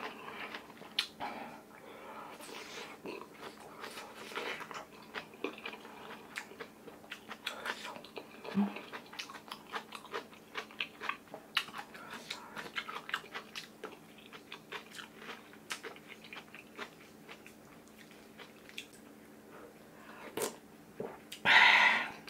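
Close-up mouth sounds of a person eating kimchi stew with rice: chewing and crunching with many small wet clicks. A short, loud noisy burst comes near the end.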